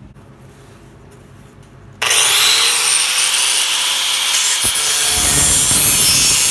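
A power grinder starts about two seconds in and runs with a loud hiss and a faint steady whine, growing heavier from about five seconds as it bites. It is grinding back the thin, burned-through steel around a hole in a lawnmower deck to reach thicker metal for a patch.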